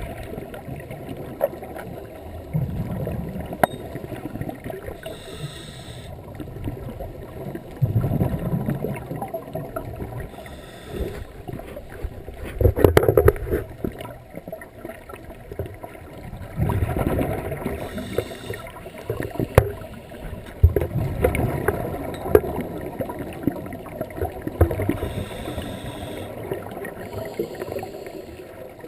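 Scuba diver breathing through a regulator underwater: a bubbly gurgle of exhaled air every four to five seconds, with short hissing inhalations in between.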